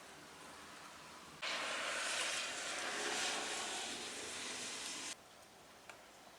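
Steady rushing hiss of heavy rain that starts abruptly about a second and a half in and cuts off just as abruptly about five seconds in.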